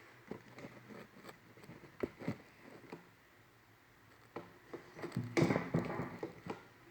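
Scattered light clicks and knocks of tools and parts being handled during a repair, with a denser, louder run of knocks about five seconds in.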